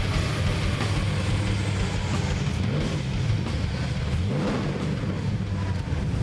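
Boosted V8 of a Ford BA Falcon XR8 ute running on a chassis dyno, its engine note dipping and rising about halfway through.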